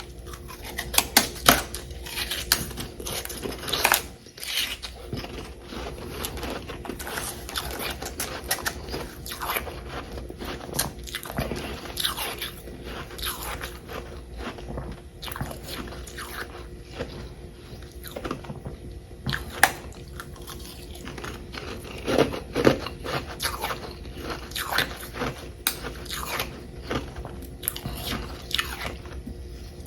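Close-miked biting and chewing of chunks of frozen humidifier frost: a continuous run of sharp, crisp crunches, with several louder bites standing out.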